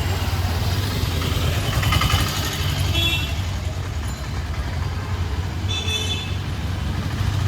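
City street traffic: motor vehicles running with a steady low hum, and short horn toots about three seconds in and again about six seconds in.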